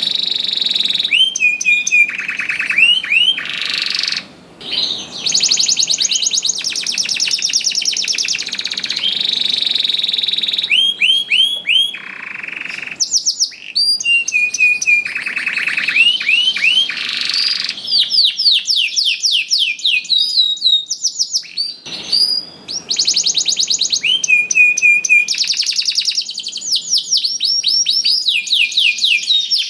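Male domestic canary in full song, a long unbroken run of fast trills and rapid repeated notes with many changes of phrase and only brief pauses.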